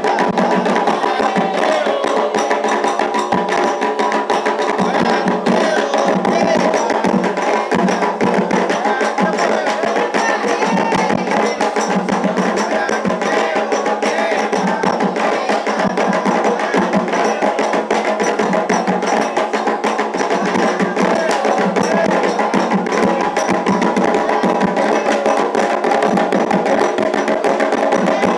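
Afro-Brazilian ceremonial music for Xangô: atabaque hand drums and a struck bell playing a fast, unbroken rhythm, with voices singing over them.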